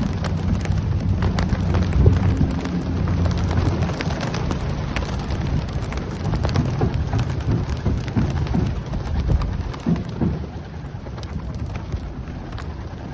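A large flock of racing pigeons taking off at a release, a dense clatter of wingbeats that thins out somewhat near the end.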